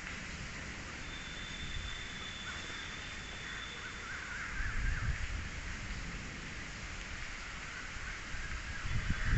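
Outdoor ambience with crows cawing and other birds calling over a steady hiss, and low rumbling swells twice, about halfway through and near the end.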